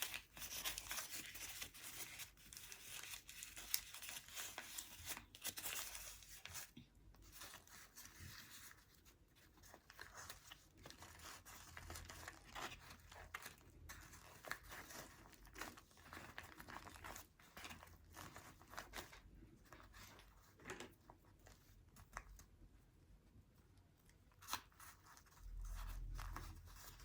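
Faint, irregular rustling, crinkling and tearing of paper being handled and shaped by hand.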